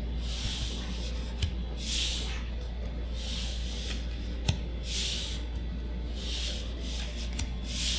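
Magic: The Gathering cards being slid one at a time across a stack during a pack reveal: a soft swish about every one and a half seconds, six in all, with two light clicks of card edges. A steady low hum runs underneath.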